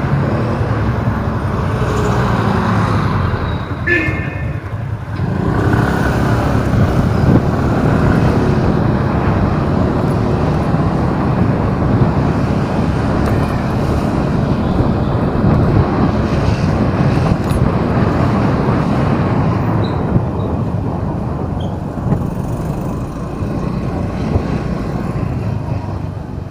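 Steady city traffic noise heard while driving: engines and tyres running continuously, with a brief high-pitched tone about four seconds in and the noise easing off slightly near the end.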